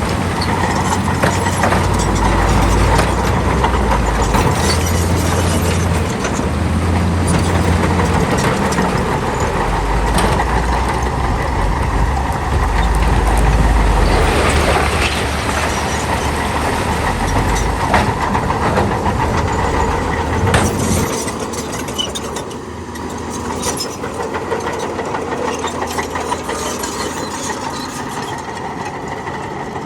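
Heavy diesel earthmoving machinery working, its engines changing load with a deep rumble, over a steady clatter and rattle of machinery and material. The low rumble eases about 21 seconds in, leaving a lighter engine running.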